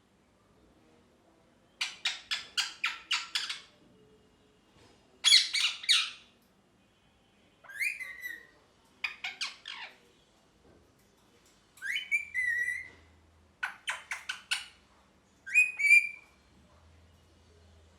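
Pet ringneck parakeet squawking in loud, high bursts: quick runs of short, sharp notes alternate with single calls that slide down in pitch, with pauses of one to two seconds between bursts.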